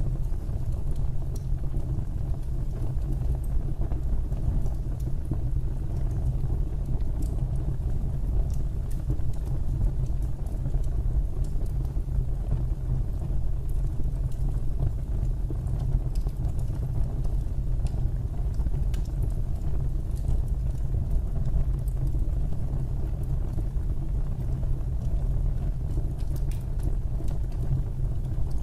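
Wood fire in a fireplace burning: a steady low rumble with faint, scattered crackles and pops.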